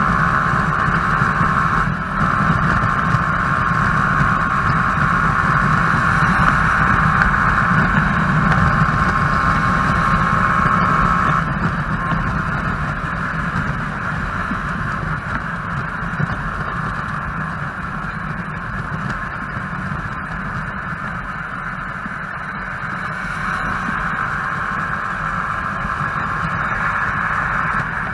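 Motorcycle running under way, a Yamaha YZF-R15's single-cylinder engine with a steady rush of wind and road noise. The sound eases off about eleven seconds in and picks up again near the end.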